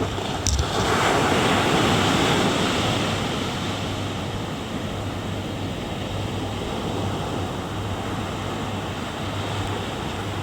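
Ocean surf: a wave breaks and washes in about a second in, louder for a couple of seconds and then easing into a steady wash, with wind on the microphone. A short sharp click about half a second in.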